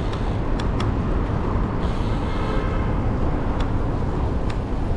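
Street traffic and road rumble heard from a bicycle ride, with a few sharp clicks and a brief higher-pitched hiss about two seconds in.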